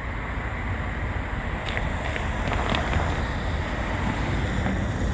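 Steady noise of street traffic going by, with wind on the microphone.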